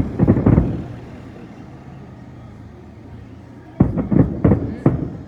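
Firework shells bursting overhead: a quick cluster of loud bangs at the start, then about five sharp bangs in quick succession near the end, with a low rumble between.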